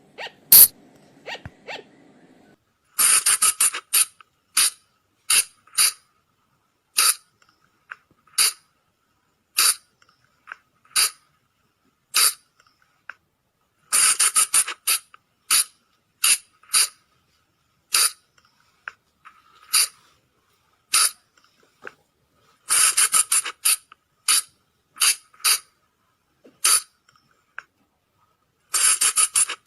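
Colugo (flying lemur) calls: short, shrill squeaks, bunched into quick runs of several every ten seconds or so, with single squeaks roughly once a second in between.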